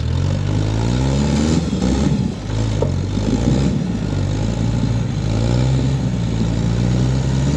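Off-road rig's engine revving in repeated pulls as it climbs a rock obstacle. The pitch rises during the first second and a half, drops about two seconds in, climbs again, and holds steadier toward the end.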